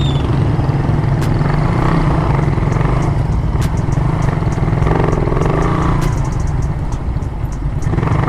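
Suzuki Raider 150 Fi motorcycle engine running steadily, with scattered sharp clicks over the low rumble.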